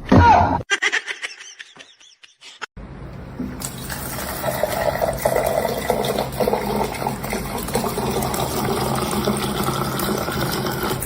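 A short loud sound at the start, then a steady rush of running water from about three seconds in.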